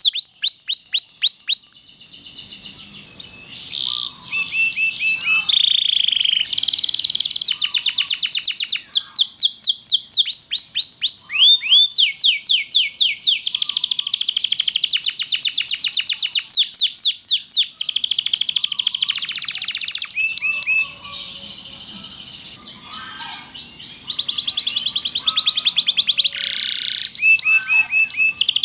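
Domestic canary singing a long song of fast rolling trills and repeated chirps. The song thins to quieter, scattered notes about two seconds in and again about two-thirds of the way through, then picks up again.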